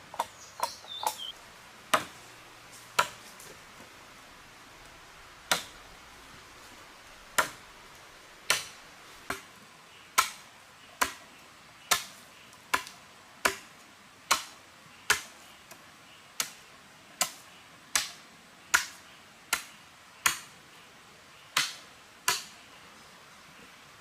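Sharp knocks of a tool striking something solid: a few uneven strikes at first, then a steady beat of slightly more than one strike a second.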